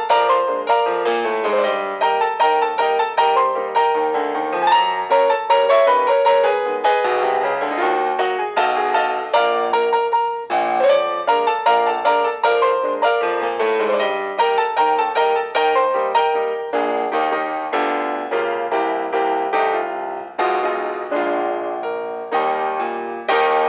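Background piano music, a quick run of struck notes with a short pause about ten seconds in.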